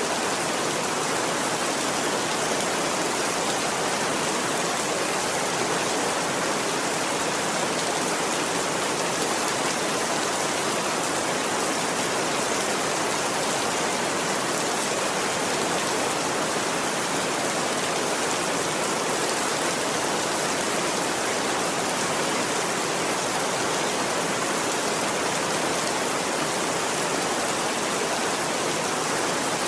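Steady rain, an even hiss with no change in level.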